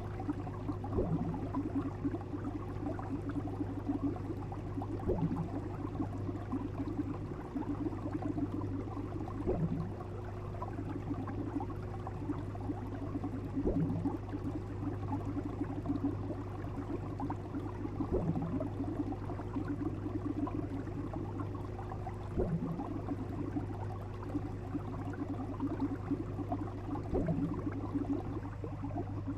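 Looped fish sound-effect track: a steady low hum under a fluttering buzz, with a short sound that comes back about every four seconds.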